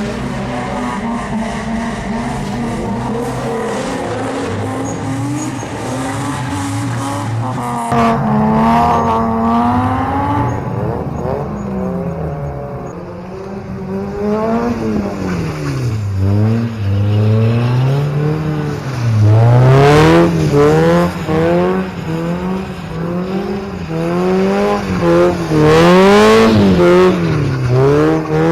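Car engine revved hard again and again, its pitch climbing and dropping in quick swings, with tyres squealing as the car slides.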